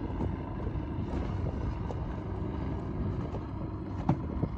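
Steady wind rumble on the microphone on a small boat, with one sharp knock near the end.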